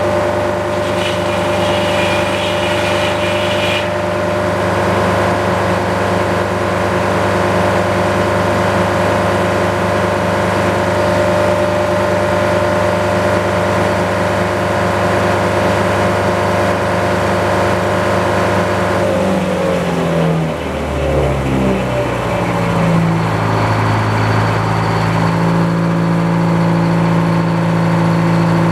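Detroit diesel engine powering a sawmill, running steadily at working speed, then slowing with a falling pitch about twenty seconds in and settling at a lower steady speed.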